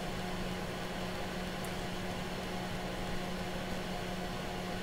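Steady hum with an even hiss from running bench equipment, holding one low tone with no change.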